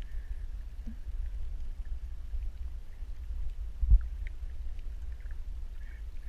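Underwater ambience: a steady low rumble with scattered faint clicks and one dull thump about four seconds in.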